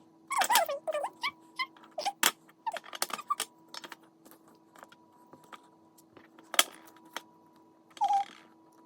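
Wooden puzzle pieces clicking and knocking as they are handled and fitted into a wooden board, busiest in the first few seconds. A few short, high vocal sounds from a small child come in between.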